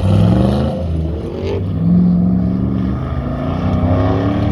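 Chevrolet C10 pickup's engine accelerating hard from the start of a timed autocross lap, its pitch climbing, dropping at a gear change about a second and a half in, then climbing again.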